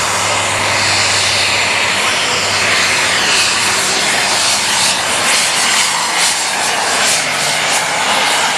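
Light Super Stock pulling tractor engine running flat out under load as it drags the sled down the track, a loud, steady, dense engine noise.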